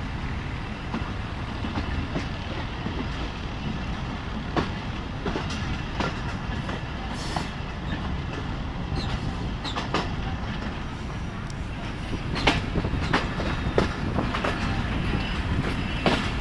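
Passenger train running along the track, heard from outside a coach window: a steady low rumble with irregular sharp clacks from the wheels on the rails, getting louder near the end.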